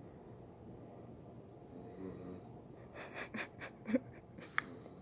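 Sleeping dog snoring: one raspy snore breath about two seconds in, then a quick run of short, sharp sputters.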